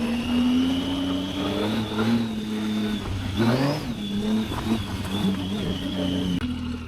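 Motorcycle engine running under way, its pitch shifting with the throttle, with a quick rising rev about halfway through. The engine sound drops away near the end.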